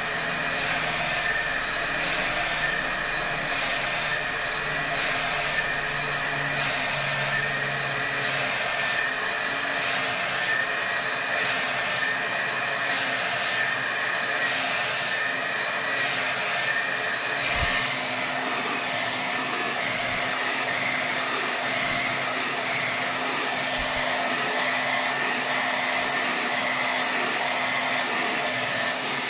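Hair dryer running continuously on its highest setting: a loud, steady rush of blown air with a faint whine. The airflow swells gently about once a second for the first half, then settles to an even, unbroken rush with a low hum about halfway through.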